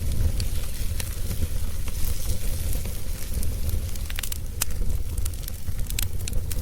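Wood logs burning in a fireplace, crackling with scattered sharp pops over a steady low rumble; the pops come thicker a little past the middle.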